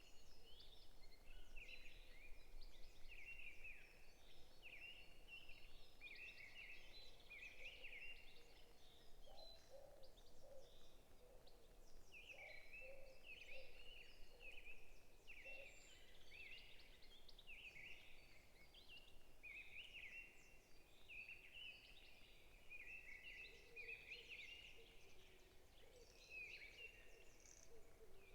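Forest birds chirping: many short, quick chirp notes overlapping in a steady chorus, with fainter, lower calls joining in the middle and again near the end.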